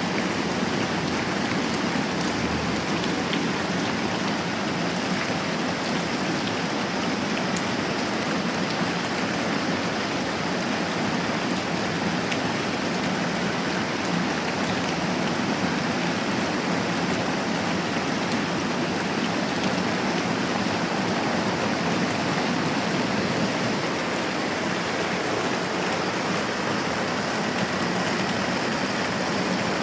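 Moderate rain falling steadily, an even, continuous hiss of drops with no change in strength.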